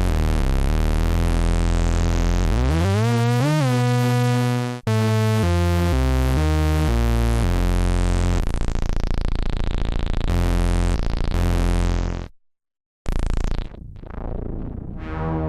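Dreadbox Artemis synthesizer playing a bright, buzzy sequenced bass line, the notes changing several times a second. A little under three seconds in the pitch glides upward with a wobble, cuts off suddenly near five seconds, and the pattern resumes. About twelve seconds in the sound stops for a moment and comes back as a softer, different tone.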